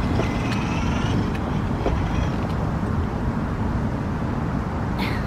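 Steady low outdoor rumble, with a few faint high chirps in the first second and a short click about five seconds in.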